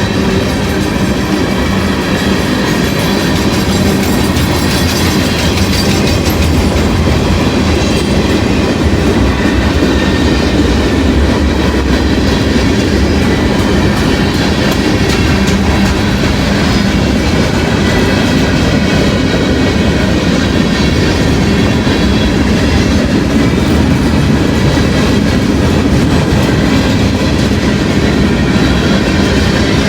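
Freight train of loaded autorack cars rolling past close by: a loud, steady rumble of steel wheels on rail with clicks as the wheels cross rail joints.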